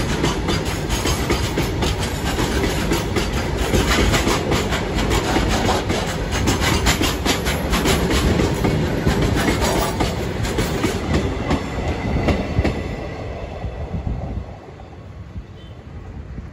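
Goods train's open freight wagons rolling past close by, wheels clattering over the rail joints over a steady low rumble. Near the end the clatter thins out and the sound drops to a quieter rumble.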